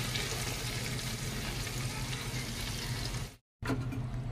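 Yogurt-marinated chicken frying in hot oil in a steel pot: a steady sizzling hiss. It cuts off abruptly for a moment about three and a half seconds in, then a softer sizzle resumes.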